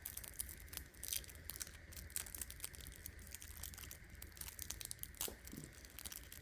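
Polymer clay packaging crinkling and crackling in irregular bursts as the packs are handled and opened, over a steady low hum.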